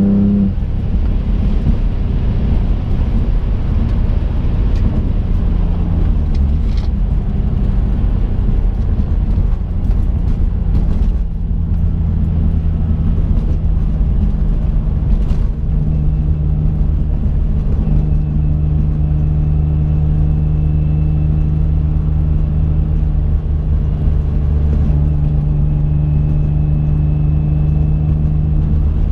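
Twin-turbocharged V6 of a 2005 Infiniti G35 coupe, heard from inside the cabin at a steady cruise over tyre and road noise. The engine note steps slightly in pitch a few times.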